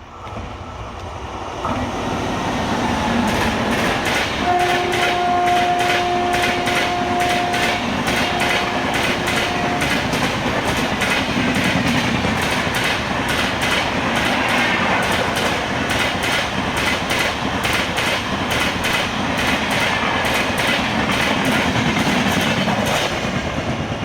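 Train passing at speed close by: a loud, steady rumble with rapid clickety-clack of the wheels over the rails. About four seconds in, its horn sounds one long blast followed by two short ones.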